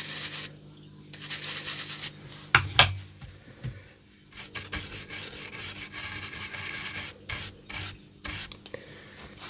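Ink blending brush scrubbed over card stock in repeated back-and-forth passes, working the ink into the card, with short pauses between passes. Two sharp knocks about two and a half seconds in.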